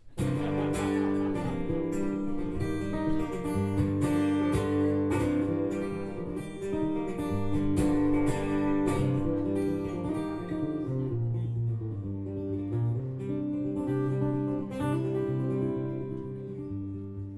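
Acoustic guitar strumming chords as a song's intro, easing to a softer, sparser strum in the second half.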